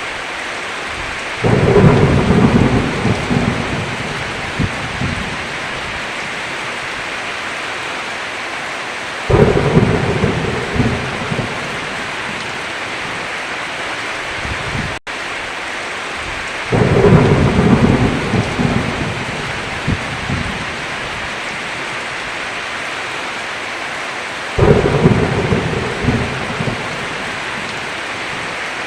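Steady heavy rain with thunder rolling in four times, about every seven or eight seconds, each rumble breaking loud and dying away over a few seconds. The sound drops out for an instant about halfway through.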